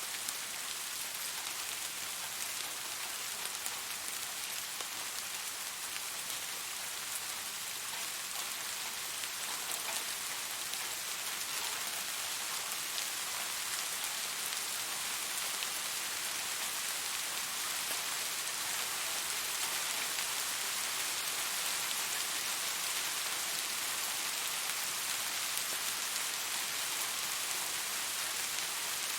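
Steady rain falling, an even hiss with scattered drops pattering, swelling a little in the second half.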